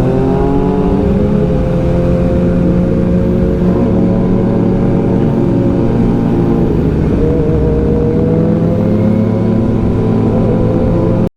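Kawasaki ZX-6R inline-four engine running under way, heard from the rider's position over low rumbling noise. It holds a steady pitch, dips slightly about two-thirds of the way through, then rises gently.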